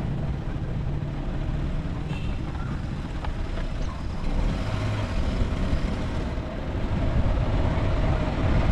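Steady low rumble of a motor vehicle on the road: engine and road noise at a fairly even level.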